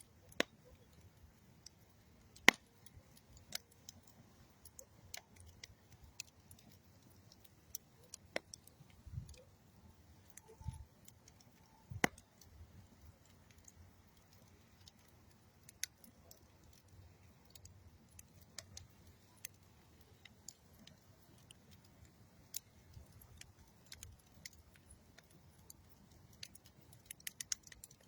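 Campfire of old railroad wood and dead tree wood crackling: sparse, irregular sharp pops and snaps, a few of them much louder, over a faint low background.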